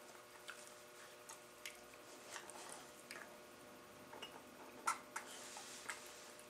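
Dogs play-fighting: scattered soft wet mouth smacks and clicks as they mouth at each other. The sharpest comes a little before five seconds, followed by a brief breathy rush.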